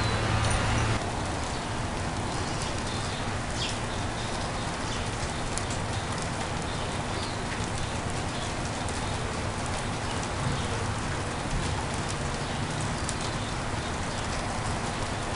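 Steady outdoor hiss with scattered faint ticks; a low hum cuts off suddenly about a second in. No thunderclap.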